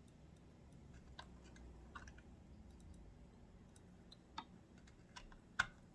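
Faint, scattered small clicks and taps of sewing-machine parts being handled and pressed into place in the zigzag cam mechanism, the sharpest two near the end.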